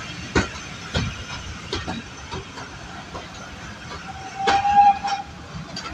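Passenger train running along the line, its wheels clicking over rail joints over a steady rumble and hiss, with a single steady high-pitched tone lasting about a second a little past the middle.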